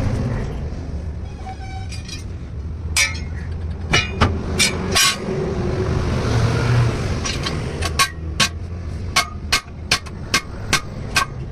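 Sharp knocks from tyre-fitting work on a truck wheel, scattered at first, then a regular run of about two to three a second in the second half, over a steady low rumble.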